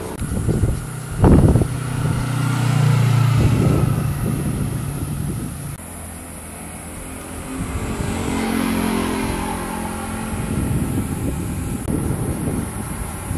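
Motor vehicles passing one after another. An engine surges loudly about a second in and holds a steady note that dies away by about six seconds, then another engine comes up and passes in the second half.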